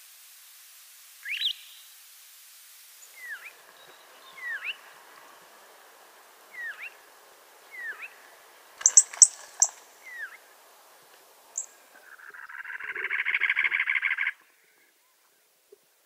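Wild birds calling: a single rising note, then a run of short sliding whistled notes about one a second with a few sharp high ticks among them. Near the end comes a cactus wren's harsh, rapid rasping chatter lasting about two seconds.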